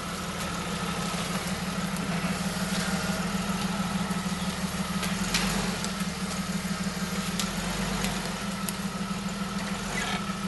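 Jeep Wrangler YJ's engine running steadily at idle-level revs as it crawls slowly over rough off-road ground, with a faint steady whine above the engine note. A few sharp clicks are heard about halfway through and near the end.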